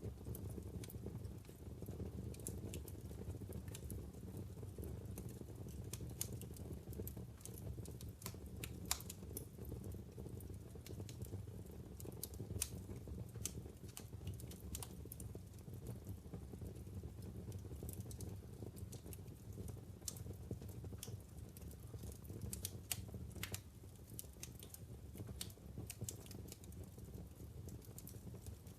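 Wood fire burning in a fireplace: irregular sharp crackles and pops from the logs over a steady low rush of flame.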